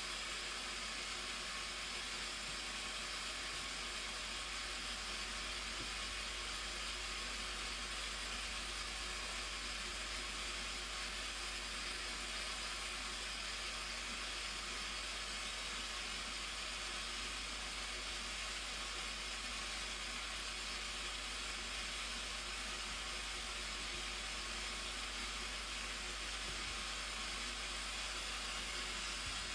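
Steady rushing of the Blue Nile Falls, an even, unbroken hiss of falling water.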